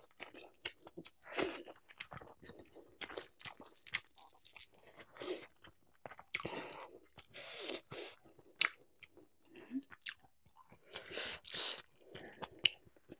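A person chewing a mouthful of rice and curry close to the microphone: irregular wet smacking and mouth clicks with occasional crisp crunches.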